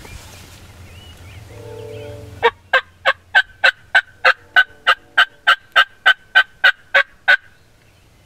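A long run of about seventeen loud, evenly spaced turkey yelps, about three a second, starting a few seconds in and stopping shortly before the end.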